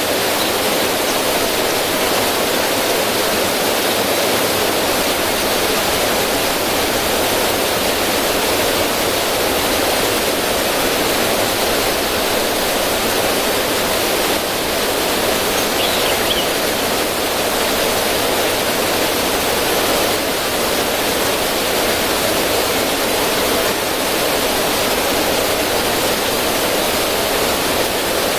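River water rushing and splashing over rocks in a small cascade, a steady, even rush.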